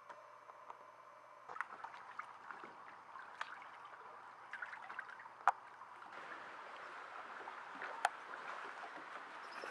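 Steady rain, with scattered sharp drips and drops landing; it comes in abruptly about a second and a half in.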